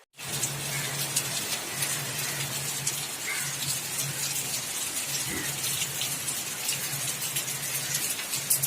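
Heavy, continuous rain falling, an even hiss full of close, sharp drop and splash ticks. A low steady hum runs underneath and cuts in and out.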